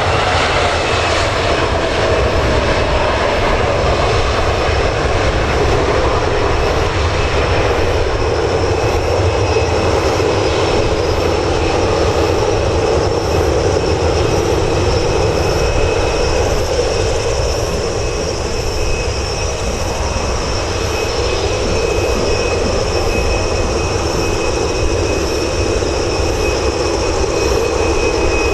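Boeing 737-800's CFM56 jet engines running with a steady loud roar, a whine falling in pitch during the first couple of seconds and a steady high whistle above it.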